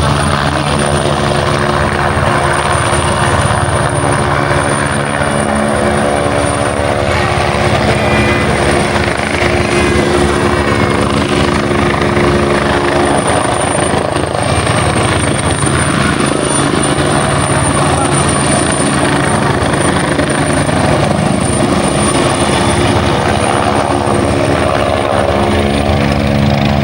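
Helicopter hovering with a continuous steady rotor and engine hum, with a thin high turbine whine above it. The low engine tones fade in the middle and come back strongly near the end.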